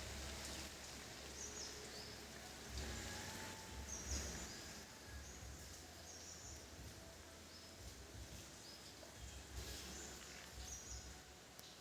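Faint background noise with a steady low rumble and short, high chirps repeating every second or so, like a small bird calling.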